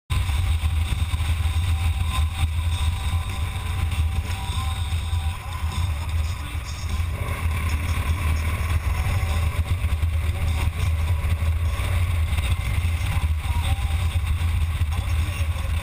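Motorcycle running steadily on the road, a loud deep rumble with a slight dip in level about five to seven seconds in.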